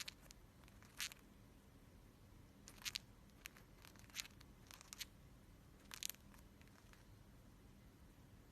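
A handful of short, scratchy crunches and scrapes, about seven spread irregularly over several seconds, in an otherwise quiet room.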